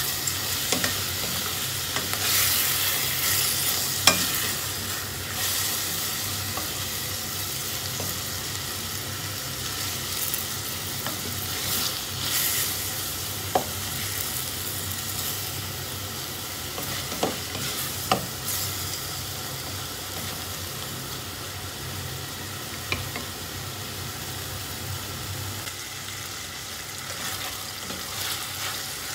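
Chicken and onion frying with a steady sizzle in a stainless steel pot, stirred and scraped with a wooden spatula. A few sharp knocks of the spatula against the pot come through the sizzle.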